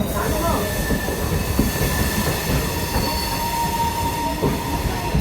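MEMU electric passenger train running, heard from on board: steady rumble of the wheels on the rails with a held wheel squeal, a higher squeal giving way to a lower one about three seconds in.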